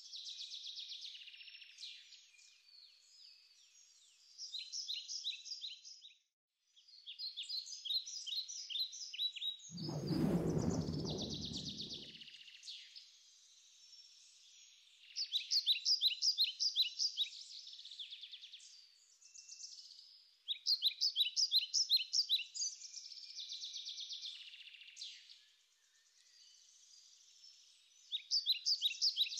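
Birdsong on an added soundtrack: bursts of rapid, high chirping trills that come again and again. About ten seconds in, a deeper rumbling noise lasts around two seconds.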